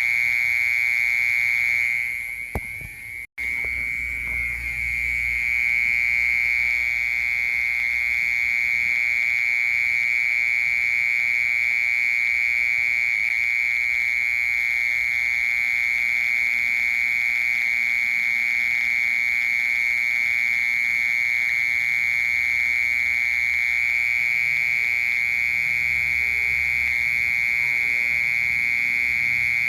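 Cricket singing a continuous, high-pitched buzzing trill that holds one steady pitch. It dips and drops out for a moment about three seconds in, then carries on unbroken.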